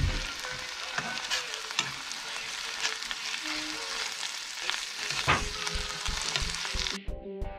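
Food sizzling as it fries in a pan, with scattered knocks and scrapes of a utensil stirring it.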